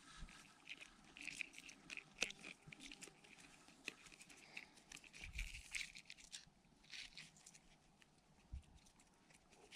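Faint, irregular crackling, rustling and clicking with a few soft thumps.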